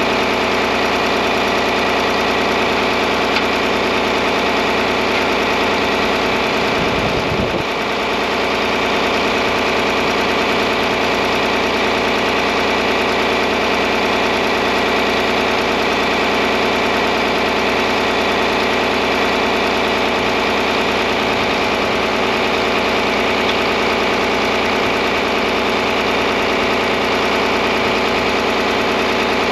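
John Deere 4010 tractor engine running steadily at idle, with a brief dip in level about seven seconds in.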